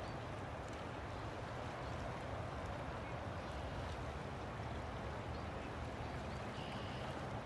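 River water flowing: a steady rushing of moving water.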